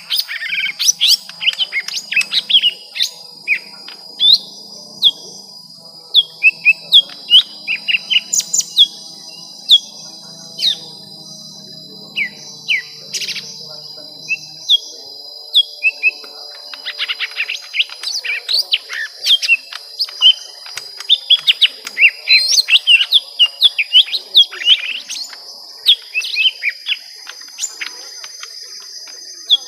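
Young lesser green leafbirds calling in a fight: rapid runs of sharp chirps and short down-slurred whistles, with a steady high whine behind them.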